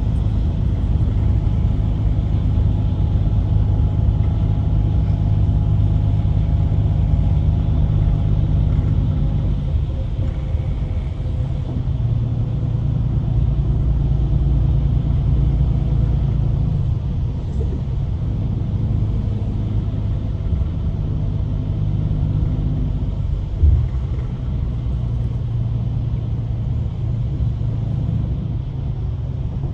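Scania coach engine and road rumble heard from inside the cabin of an Irizar i8 bus cruising, with a steady low drone. The engine note changes pitch about ten seconds in, and there is a single sharp knock about three quarters of the way through.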